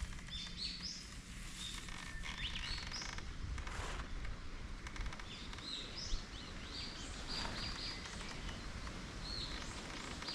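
Small songbirds chirping, many short high notes scattered throughout, over a steady low outdoor rumble.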